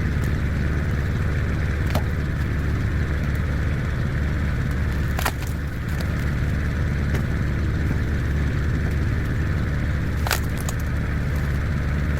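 Tractor engine running steadily, driving a hydraulic log splitter, with sharp cracks of logs splitting about two seconds in, around five seconds and around ten seconds.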